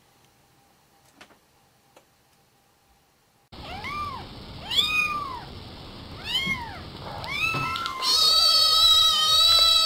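A cat meowing: after a few faint clicks, four short meows that rise and fall in pitch, about a second apart, then one long drawn-out meow near the end.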